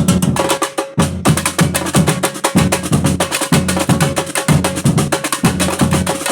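Batucada drum ensemble playing a steady samba groove: deep bass drums beating about once a second under a dense run of snare, tamborim and other sharp percussion strokes.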